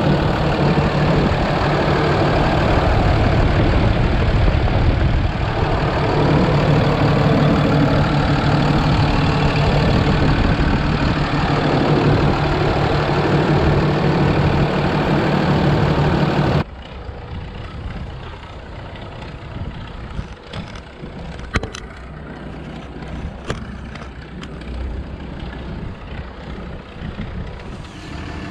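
Ford F750 truck engine running steadily and loudly with a constant low hum. About two-thirds of the way through, the sound drops suddenly to a much quieter engine sound with a few sharp clicks.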